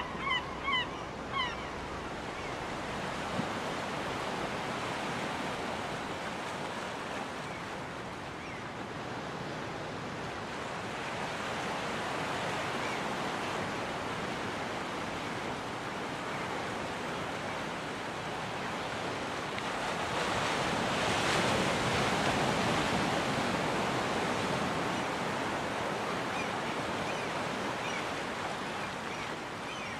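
Ocean surf on a beach: the steady hiss and wash of breaking waves, swelling to its loudest about two-thirds of the way through. In the first second or so a bird gives a quick run of repeated honking calls.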